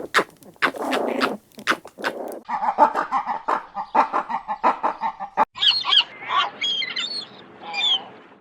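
Wild animal and bird calls. Loud harsh calls come first, then a fast chattering run of pitched calls, and from about five and a half seconds in, higher bird chirps and whistles.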